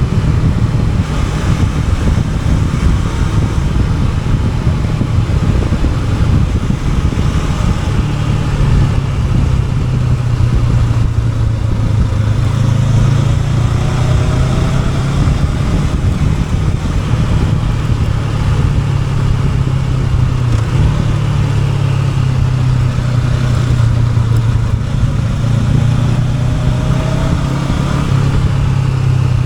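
Honda NX500 parallel-twin engine running under way at a fairly steady pitch, rising and falling a little with the throttle, over a constant rushing noise.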